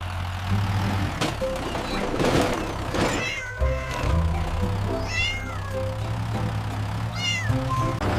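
Cat meowing a few times, short high-pitched mews over steady background music.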